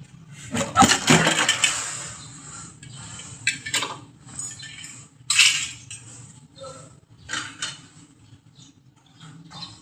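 Small metal parts and tools clinking and clattering as they are handled: a burst of rattling knocks early on, then separate sharp clinks every second or two.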